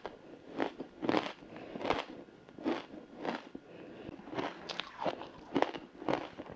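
Close-up crunching of frozen matcha ice being bitten and chewed, a run of short crisp crunches about every half second.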